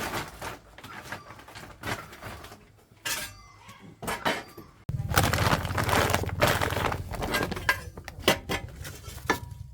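Metal parts clinking and knocking as they are handled. About five seconds in, a steady low hum starts abruptly under the continuing clatter.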